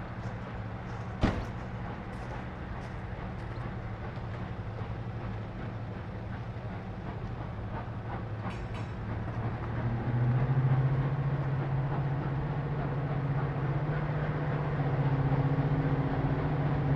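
Class 55 Deltic diesel locomotive's Napier Deltic engines running with a steady low drone that grows louder about ten seconds in. A single sharp click comes just over a second in.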